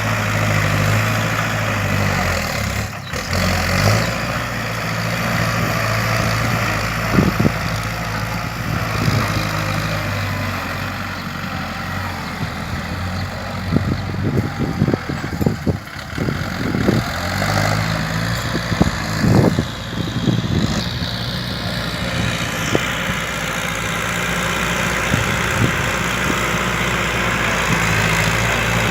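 Kubota L4708 tractor's diesel engine running steadily while grading and pushing dirt. Through the middle stretch come repeated short clunks and rattles.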